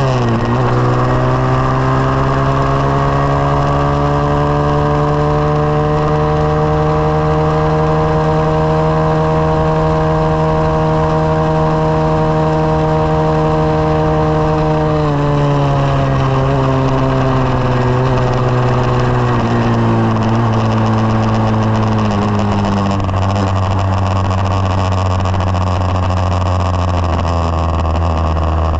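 SSR 189 dirt bike's single-cylinder four-stroke engine under way. Its pitch dips right at the start, then holds steady and creeps slowly upward for about fifteen seconds. From about halfway it falls in several steps and ends lower.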